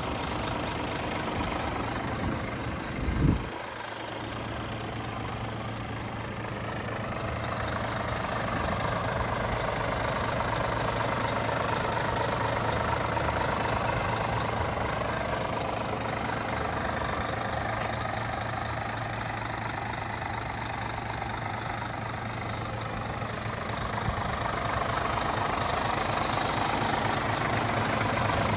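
Scania G450 truck's diesel engine idling steadily, with a single short thump about three seconds in.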